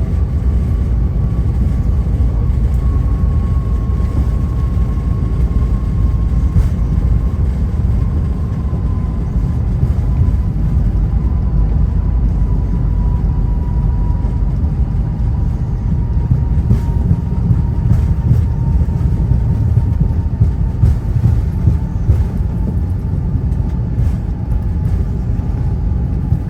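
Cabin noise of a Bombardier CRJ900 after landing: a steady low rumble with the whine of its rear-mounted GE CF34 turbofans falling slowly in pitch as the jet slows and taxis.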